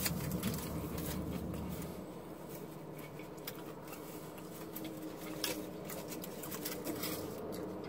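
Close-up chewing of a soft beef taco, with small wet mouth clicks and the aluminium foil wrapper crinkling in the hands.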